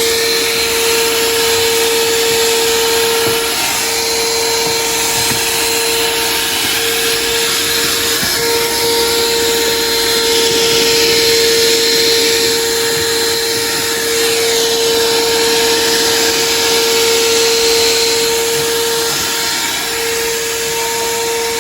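Vacuum cleaner running steadily: a constant motor whine over a rush of air, the whine dipping briefly a few times.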